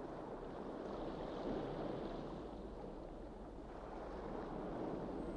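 Underwater ambience: a steady rushing wash of moving water that swells slightly and eases.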